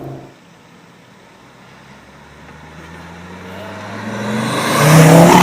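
Turbocharged hot-hatch engine accelerating through a gear, its note rising steadily in pitch and growing much louder over about five seconds, then cut off suddenly.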